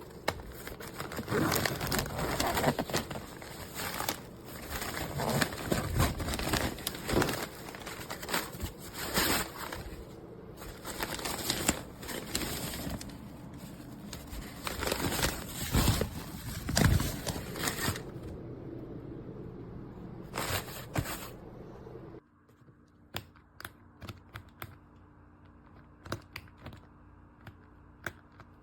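Crinkling, rustling handling noise with knocks, as of packaging or an object being handled. It stops suddenly about three quarters of the way through, leaving a faint steady hum with scattered clicks.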